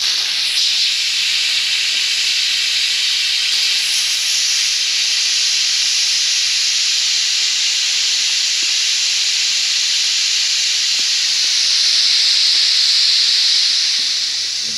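Afghan pressure cooker venting steam as its pressure is let off: a loud, steady hiss that starts suddenly and eases off near the end.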